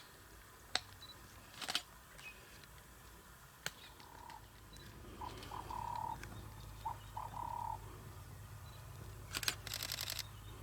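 Camera shutter clicking: a few single clicks, then a fast burst of shots near the end. In the middle an animal gives a few short calls, each held on one pitch, over a low steady hum.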